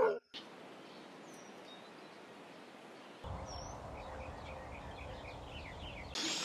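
Quiet outdoor ambience with a few faint bird chirps. About three seconds in, a low rumble comes in under it, along with more faint chirping.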